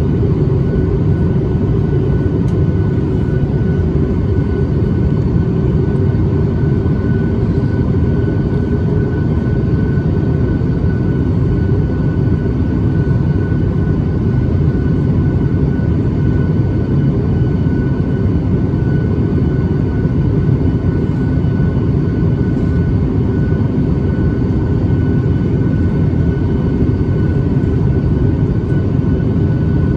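Cabin noise inside a Boeing 737 MAX 8 in flight: a steady, deep roar of airflow and its CFM LEAP-1B engines, with a thin, steady high whine.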